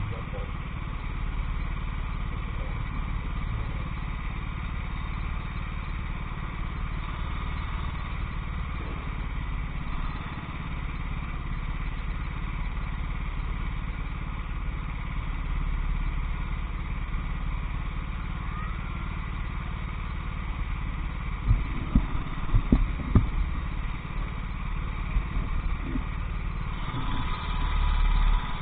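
Racing kart engine running continuously under race load. A cluster of sharp low thumps comes about three quarters of the way through, and the engine grows louder just before the end.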